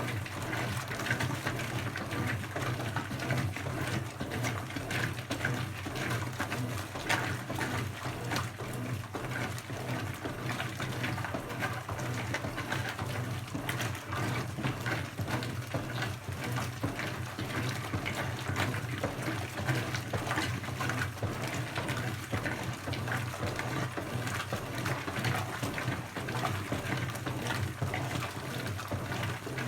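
Brastemp 17 kg washing machine with water pouring and splashing in its drum, steady and continuous, over a low hum.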